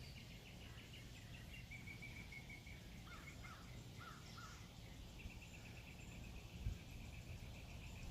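Faint birdsong: high repeated trills, and four short chirps between about three and four and a half seconds in, over a low steady background rumble. A single soft thump comes near the end.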